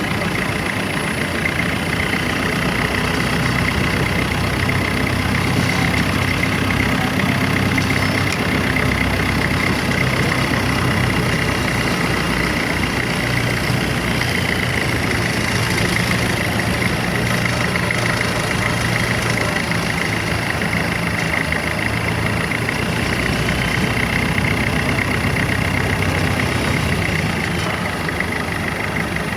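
Boat engine running steadily, a constant unbroken drone.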